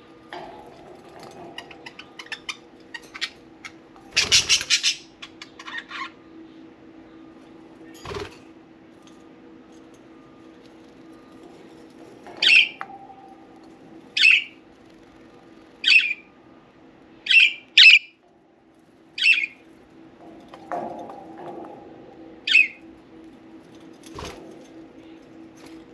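Pet budgerigars: a run of small clicks and a short rustling burst in the first few seconds as they work at a soft-wood toy, then about seven short, loud chirps, roughly one every second and a half. A faint steady hum sits underneath.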